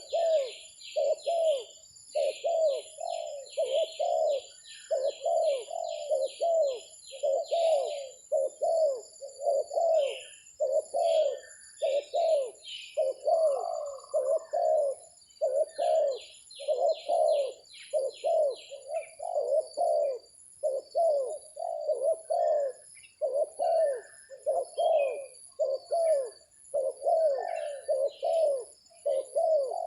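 Spotted doves cooing over and over, their low notes following each other about every half second throughout. Runs of quick, high chirps come and go over them, with a steady high-pitched whine behind.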